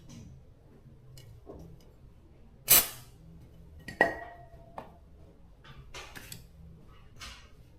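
Metal parts knocked and set down during a motor repair: two sharp metal clanks, the second ringing briefly, followed by lighter clicks and scraping.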